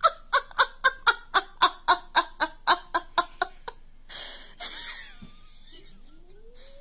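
A person laughing in a rapid run of even bursts, about four a second, for nearly four seconds. Quieter rustling follows, with a faint rising call near the end.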